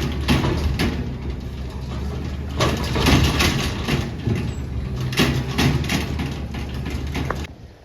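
Grapple truck's engine running steadily, with several louder crashing bursts as the grapple works the pile of debris. The sound cuts off suddenly near the end.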